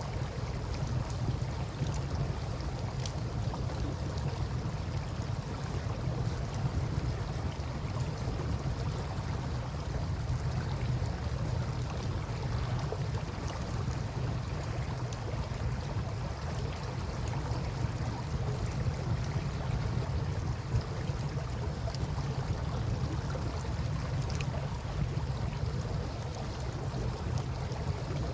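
Campfire crackling with scattered small pops over the steady wash of river water and a constant low rumble.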